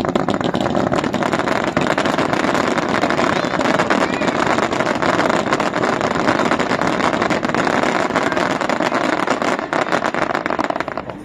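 Fireworks barrage: a dense, continuous crackle of rapid small reports, loud and unbroken for about eleven seconds, then breaking off near the end.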